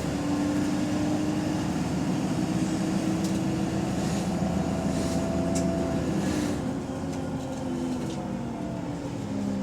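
Bus engine and drivetrain droning under load, heard from inside the bus. The drone holds steady, then eases off and falls in pitch about seven seconds in. The title puts the bus's running down to limp mode and a bad turbo.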